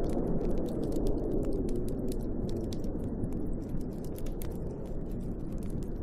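Wood fire crackling and popping in a fireplace, many small irregular snaps, over a steady low rush of snowstorm wind that swells briefly near the start.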